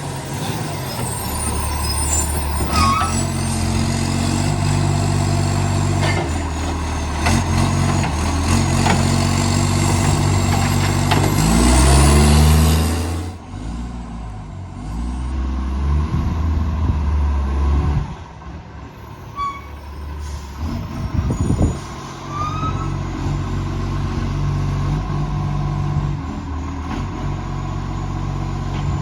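Garbage truck's diesel engine with a massive exhaust leak, running loud and changing pitch as it works. It revs up to a peak about twelve seconds in and then drops off suddenly; after a quieter stretch with a few knocks, it settles back to a steady run.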